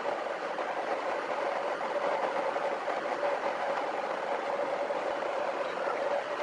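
Motorhome running at low speed, heard from inside: a steady engine tone over an even rush of road noise.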